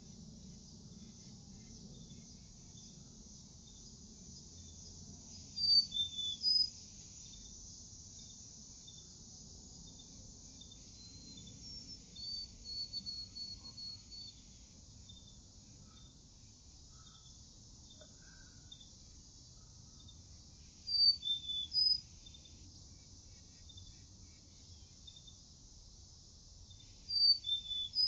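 A songbird sings the same short phrase of a few high notes three times, spaced well apart, with a softer run of notes between the first two. Under it insects keep up a steady, rapid high chirping.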